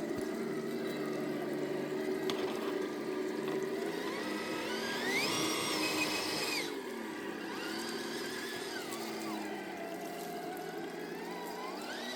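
Electric motor and geared drivetrain of an FMS FCX10 K5 Blazer RC crawler whining, its pitch rising as the throttle is opened about four seconds in, holding, then dropping off sharply; it climbs and falls again twice more near the end.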